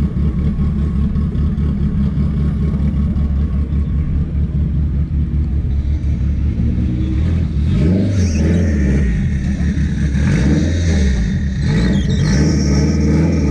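Car engine idling with a deep rumble, then revved up and down several times from about eight seconds in.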